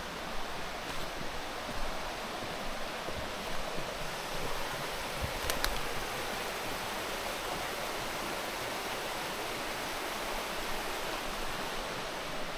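Steady rush of flowing water, with a faint click about halfway through.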